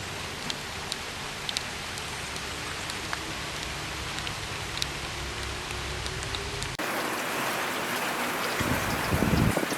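Steady rain with scattered single drops tapping. About seven seconds in it cuts abruptly to a louder, hissier rain, with a low rumble near the end.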